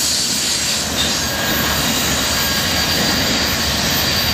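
Steady rushing and rumbling of a BNSF intermodal freight train's flatcars rolling away on the rails.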